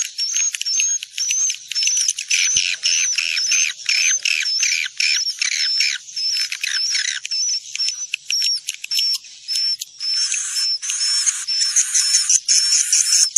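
Edible-nest swiftlets calling: a dense, continuous twittering of rapid, repeated high chirps, about three a second, turning to a buzzier chatter near the end. This is the swiftlet lure call played in swiftlet houses to draw the birds in to roost.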